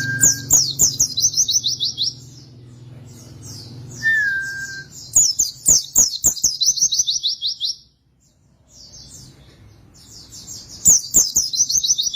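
White-eye (pleci, Zosterops) singing in three bouts of rapid, high chattering notes that fall in pitch, with a shorter lower whistled note twice. Sharp clicks come in among the song.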